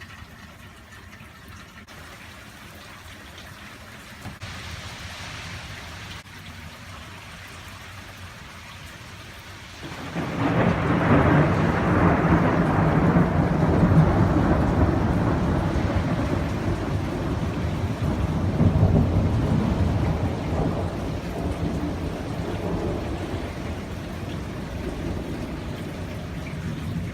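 Rain falling steadily. About ten seconds in, thunder breaks in suddenly and rolls on as a long low rumble, swelling again before it slowly fades.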